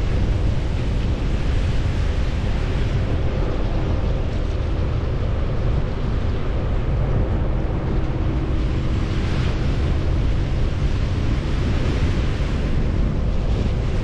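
Vehicle driving on the road: a steady low rumble of engine and road noise, with tyre hiss that swells a few times in the second half.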